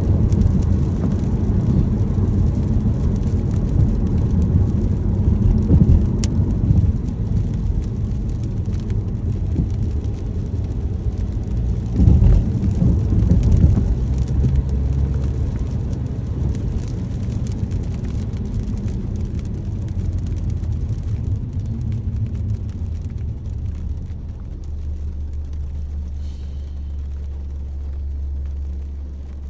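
Car driving in the rain, heard from inside: a steady low road and engine rumble with a haze of rain on the car, and a sharp click about six seconds in. Near the end the rumble thins to a steady low hum.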